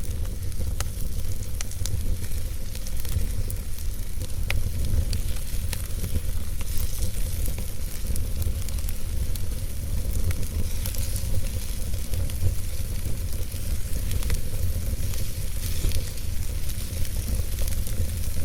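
Wood fire burning in a fireplace: a steady low rumble and hiss with scattered sharp crackles and pops at irregular moments.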